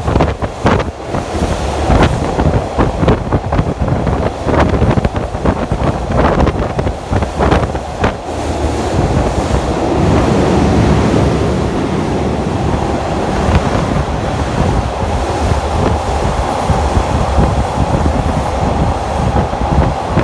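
A train running on track, heard from an open-air trolley car. For the first several seconds the wheels clack over rail joints and wind buffets the microphone; after that the ride settles into a steadier rumble with a faint held tone.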